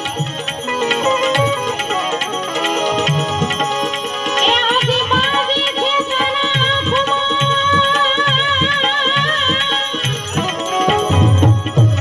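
Instrumental interlude of a Gujarati santvani bhajan: a hand-drum beat keeps time while a lead melody instrument holds long, wavering notes from about four seconds in until about ten seconds in.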